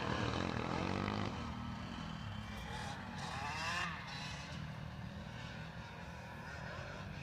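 Motocross dirt bikes running: a steady low engine drone, with one bike revving up and down about three seconds in.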